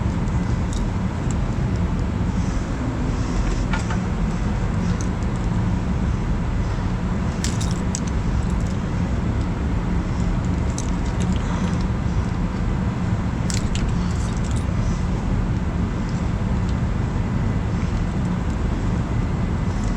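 Keys jingling and a few small metal clicks at a truck's ignition lock, over a steady low rumble.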